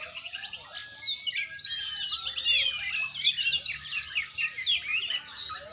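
Oriental magpie-robin (kacer) singing: a fast, unbroken run of varied whistles, trills and chirps that sweep up and down in pitch.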